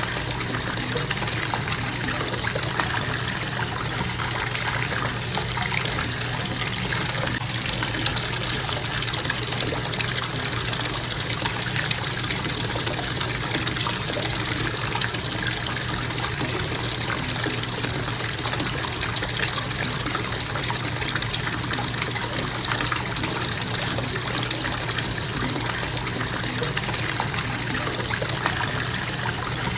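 Bathtub faucet running in a steady, constant stream, the water splashing into the tub.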